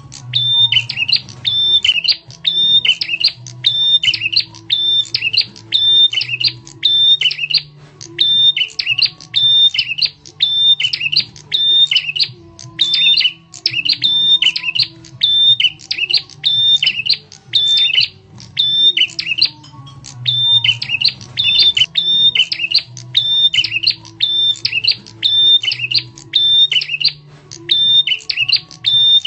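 Prenjak tamu (a prinia) calling over and over in loud, sharp chirping phrases, about two a second, with a short break twice. It is a lure call (suara pikat) used to draw other birds in.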